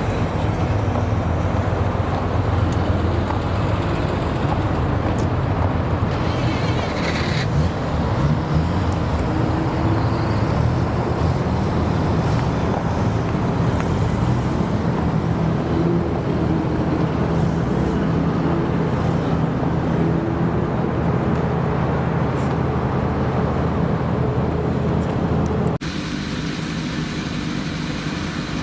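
Car engines running at low revs in a busy parking area, a steady deep rumble with slow shifts in pitch. About 26 seconds in, the sound changes abruptly to a quieter, thinner engine note.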